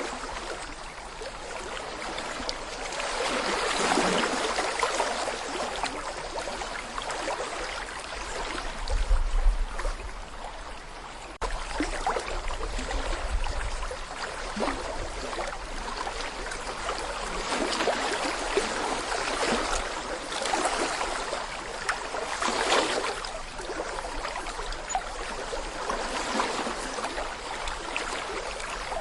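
Small brook babbling over stones: steady rushing and gurgling water that swells and eases every few seconds. A low rumble comes in about a third of the way through and lasts a few seconds.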